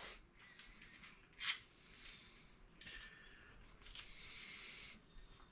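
Faint handling noises of small engine parts: a single light click about a second and a half in, then a soft rustle for a couple of seconds.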